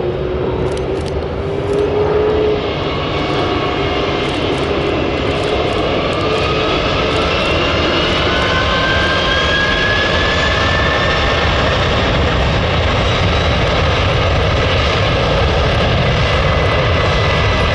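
Canadian Air Force CC-150 Polaris (Airbus A310) twin turbofan engines running loud and steady at takeoff power, with an engine whine rising in pitch partway through.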